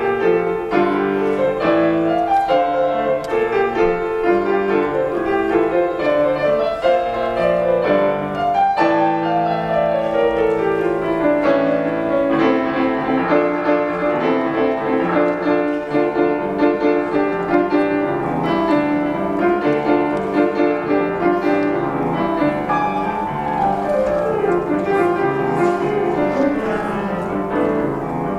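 Solo piano playing a fast, dense passage of chords and runs, with a long descending run about nine seconds in.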